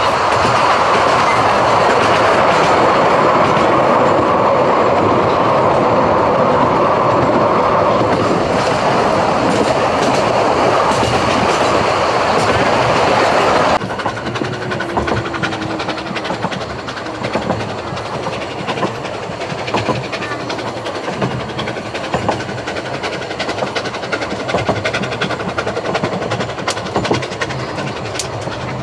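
Vale of Rheidol narrow-gauge steam train running, heard from a carriage window. A loud rushing noise of the moving train drops abruptly about halfway to a quieter clickety-clack of the wheels over the rail joints.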